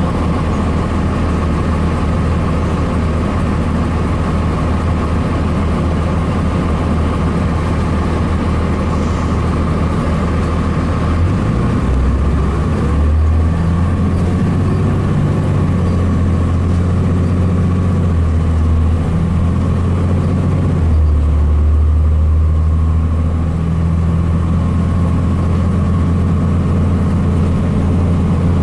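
Cummins ISC diesel engine of a 2002 Blue Bird CS transit bus running, a steady heavy drone with a high whine above it. The drone's pitch shifts about twelve seconds in and again about twenty-one seconds in.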